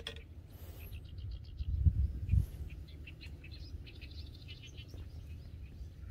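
Small birds chirping in quick runs of short, high notes, over a low rumble with two louder bumps about two seconds in.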